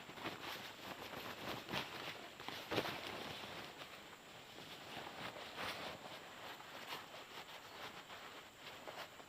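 Irregular rustling and crackling, with a few sharper cracks, of movement through dry leaves and undergrowth.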